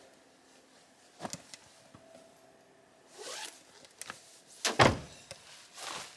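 Handling noises: a light knock, then a few rustling swishes, the loudest about three quarters of the way through.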